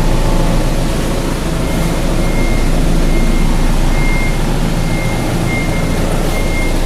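Steady low mechanical drone, like a running engine or machine, with a faint high tone beeping on and off from about two seconds in.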